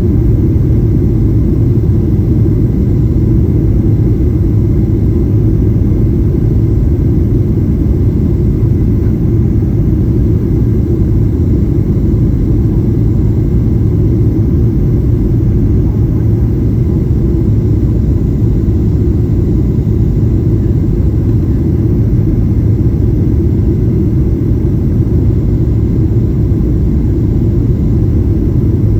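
Steady, loud low rumble of a Boeing 737-800 in flight, its jet engines and rushing airflow heard from inside the passenger cabin.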